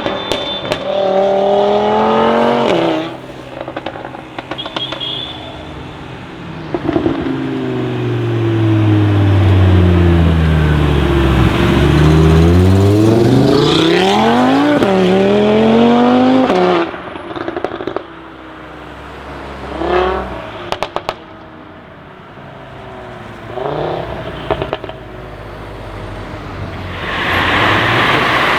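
Stage 2 tuned Audi RS3 8V with an Iroz downpipe, its turbocharged five-cylinder engine revving and accelerating hard. There is a long loud pull in the middle, with the pitch falling and then rising through a gear change, followed by sharp crackles and a couple of short rev blips.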